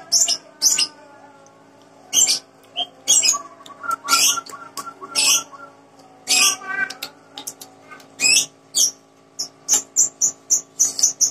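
Crunchy raw fruit being bitten and chewed close to the microphone, with crisp crunches about once a second and a quicker run of them near the end.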